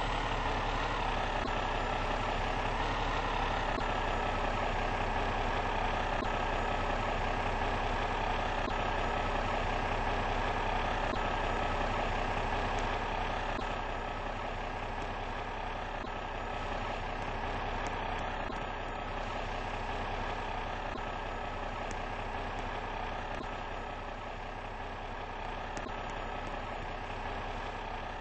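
Fire engine's heavy diesel engine running steadily, a little quieter from about halfway on.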